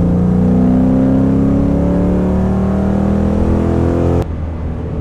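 Ford Mustang V8 at full throttle in third gear with no nitrous, its note climbing steadily toward 6000 rpm, heard from inside the cabin through a catless straight-through exhaust. About four seconds in the throttle closes and the sound drops suddenly.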